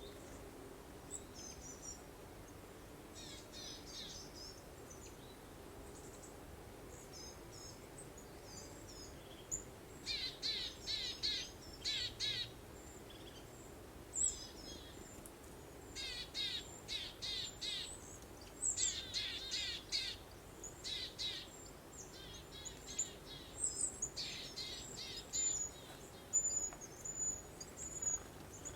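Songbirds singing in bursts of quick, rapidly repeated high chirps, loudest in the second half, over a soft steady breeze.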